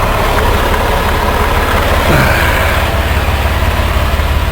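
Semi-truck's diesel engine idling with a steady low throb; a short falling tone sounds briefly about two seconds in.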